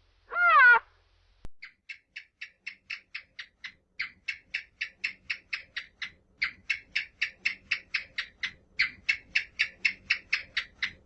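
A short rising-and-falling animal call, then a long rapid series of short, sharp animal calls, about three or four a second.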